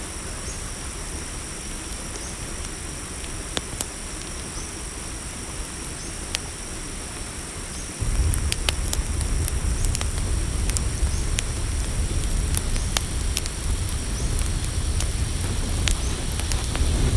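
Campfire crackling with scattered sharp pops, over a steady high trill of crickets. About halfway through, a low rumble abruptly gets louder and stays up.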